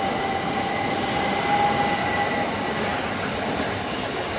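Southeastern Electrostar electric multiple-unit train passing at speed and drawing away: steady running noise of wheels on rail with a high whine that fades out a little past halfway. A sharp click right at the end.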